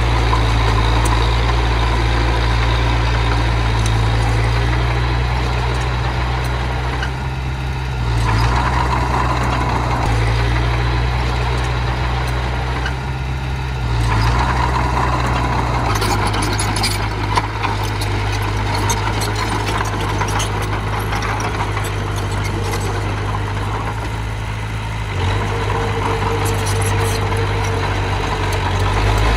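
Diesel engine of heavy earthmoving machinery running steadily under varying load, its note shifting every few seconds. A few short metallic clicks and one sharp knock come about halfway through.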